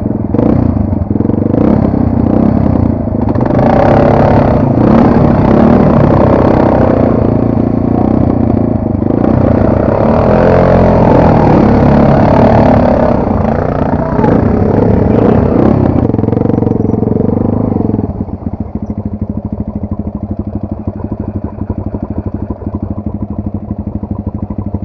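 Enduro motorcycle engine revving hard, its pitch rising and falling repeatedly, then about three-quarters of the way through it drops to a steady idle.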